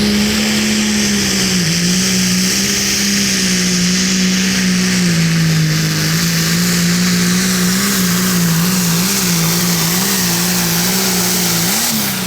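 Hot farm class pulling tractor's turbocharged diesel engine running flat out under load while pulling the sled, its pitch wavering slightly. At the very end the note starts to fall as the engine winds down.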